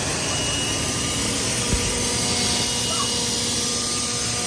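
Steady drone of running engines with a faint, thin, steady whine above it.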